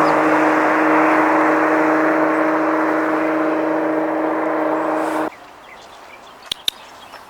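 A motor running steadily with a constant hum, then cutting off abruptly about five seconds in; a couple of faint sharp clicks follow.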